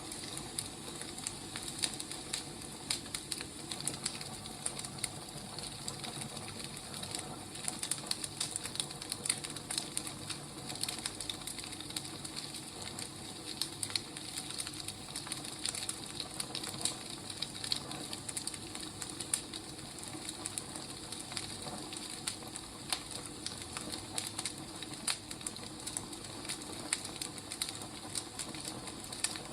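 Firewood burning, crackling steadily: a soft hiss with many small, irregular pops and snaps.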